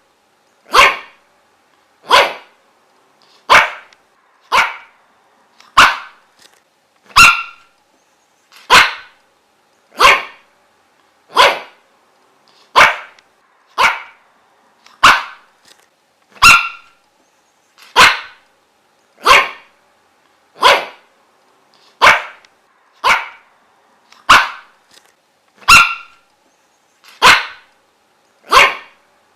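A dog barking: single sharp barks at a steady pace, about one every second and a half.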